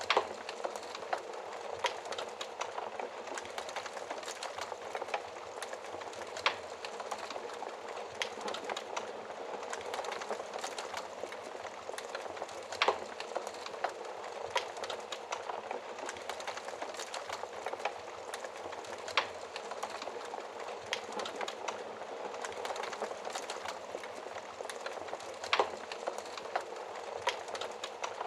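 Wood fire crackling in a fireplace: a steady hiss of burning with irregular small crackles and an occasional sharp, louder pop.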